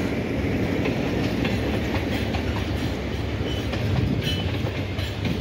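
Diesel-hauled passenger train's coaches rolling past close by: a steady rumble with scattered clicks of wheels over the rail joints.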